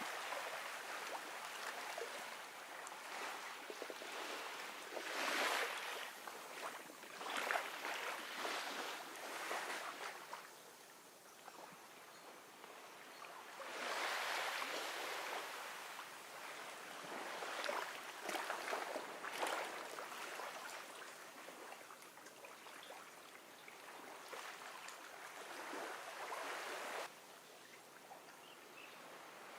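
Gentle ocean waves washing onto a beach, the hiss of the wash swelling and fading in irregular surges every few seconds.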